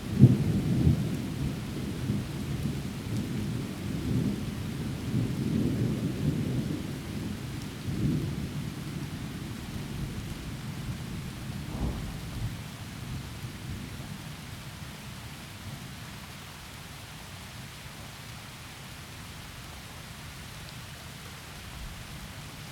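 Thunder rumbling over steady heavy rain: a loud clap right at the start rolls on in swells for about eight seconds, a shorter crack comes about twelve seconds in, and the rumble then dies away, leaving only the even hiss of the rain.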